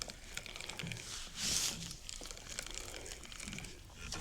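Close rustling and crinkling with small scattered clicks, and one longer rustle about a second and a half in.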